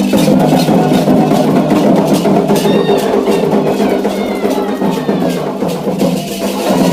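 Candomblé ritual drumming: atabaque hand drums playing a dense, steady rhythm.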